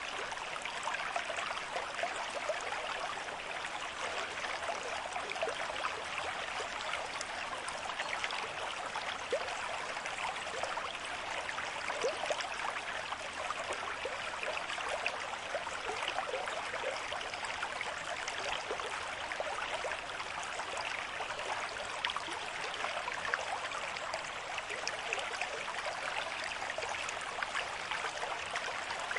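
A shallow river stream flowing steadily at a moderate pace, with a constant splashing and burbling of water over stones.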